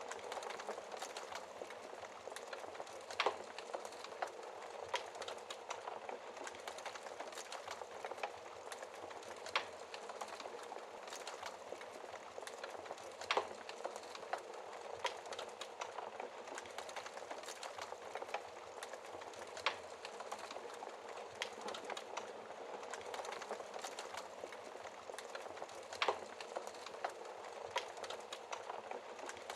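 Wood fire burning in a fireplace: a steady hiss of flames, a constant scatter of small crackles, and a handful of sharper, louder pops, about five in all.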